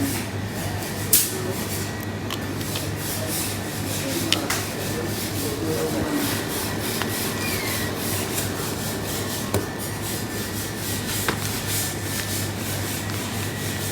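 Steady rustling or rubbing noise over a low hum and a thin steady tone, with a few sharp clicks and faint voices in the background.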